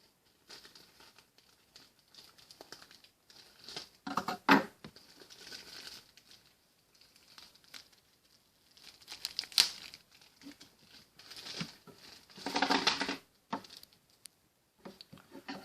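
Plastic packaging of a bag of party poppers crinkling and tearing as it is cut and pulled open, in irregular rustles with a few sharp clicks.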